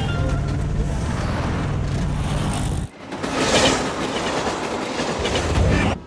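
Steady low vehicle rumble that cuts off abruptly about three seconds in, followed by a passenger train rushing past at speed on the rails, loudest soon after it starts.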